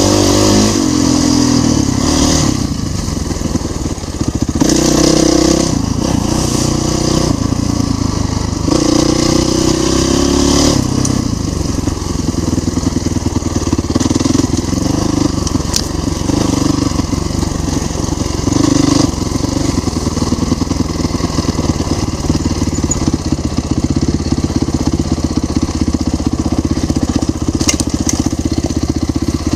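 Dirt bike engine running under varying throttle, revving up and down repeatedly in about the first ten seconds, then running more steadily.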